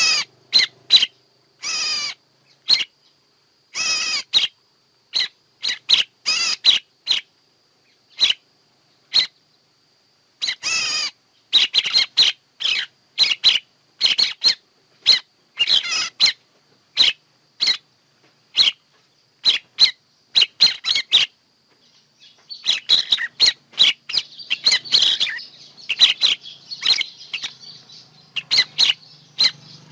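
Birds calling: a series of short chirps and whistled notes separated by brief silences, becoming a denser, overlapping chatter in the last third.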